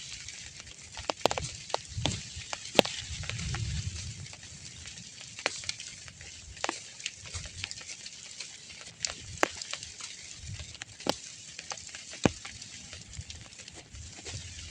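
Light rain hissing steadily, with scattered individual drops landing in sharp ticks.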